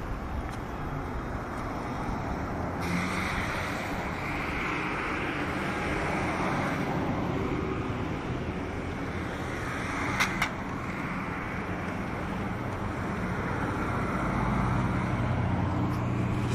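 Road traffic on rain-flooded streets: vehicles running through water, with a steady wash of water and rain noise that swells about three seconds in. Two short sharp sounds come just after ten seconds in.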